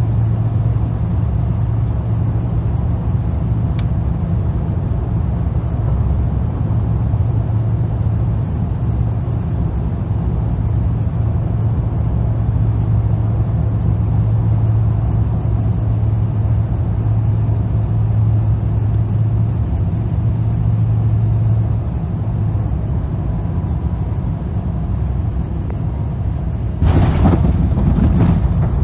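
Airbus A350 cabin noise during the approach to landing: a steady low rumble of engines and airflow with a hum that fades out past the middle. Near the end a sudden, louder rushing noise sets in and keeps going.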